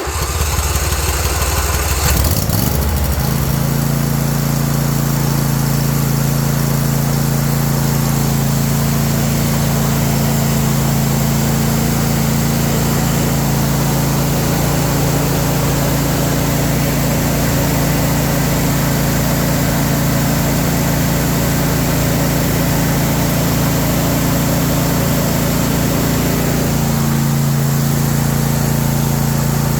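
John Deere S130 lawn tractor engine starting on its new battery and then running steadily. The first couple of seconds are rough before it settles into an even note, which shifts a little near the end.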